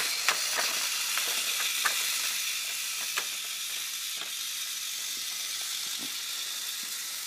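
Remote-control toy train running along a toy track: a steady hiss of its small motor with scattered clicks, slowly growing fainter.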